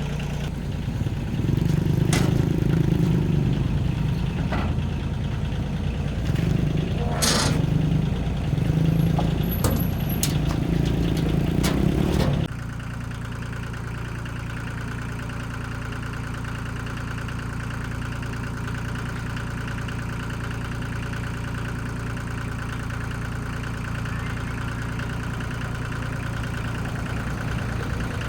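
Car engine running at idle. For the first half it is louder, with swells and a few sharp clicks. About halfway through it drops suddenly to a quieter, steady idle.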